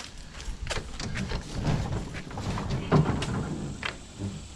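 Knocks, bumps and scrapes of heavy junk being shifted into place in a truck bed, with one louder knock about three seconds in.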